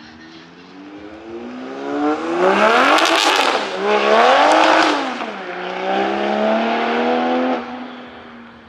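A car accelerating hard away from a standstill. The engine revs rise, drop sharply at a gear change and rise again, with a few sharp exhaust crackles at the first peak. It then holds a steady note and eases off near the end.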